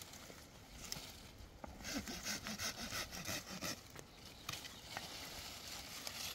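Quick rhythmic rubbing strokes, about five a second, lasting roughly two seconds in the middle, over faint outdoor background.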